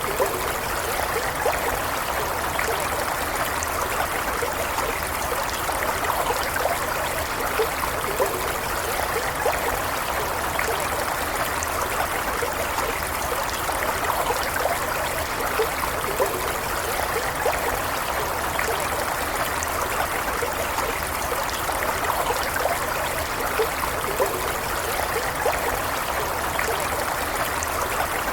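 Shallow stream running steadily over stones, a continuous rush of flowing water with small splashes and gurgles.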